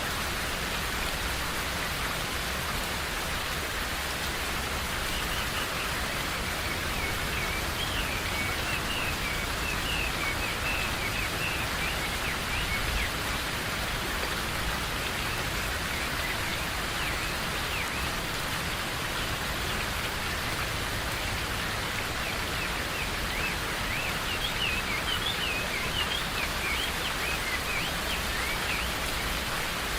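Steady rain falling in a forest, an even hiss of drops, with birds chirping in short clusters of quick calls over it, once about a third of the way in and again near the end.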